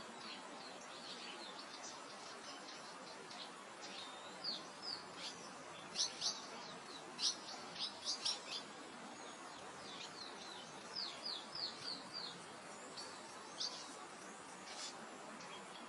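Small birds chirping in short, quick high notes over a steady soft wind hiss. The calls come in clusters, busiest in the middle.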